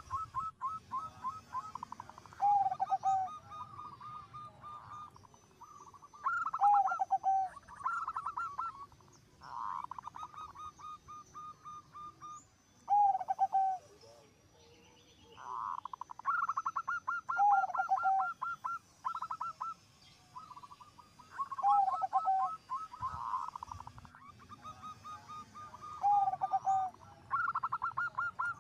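Zebra dove cooing: repeated phrases of quick staccato notes, many ending in a lower drawn-out coo, coming one after another every few seconds.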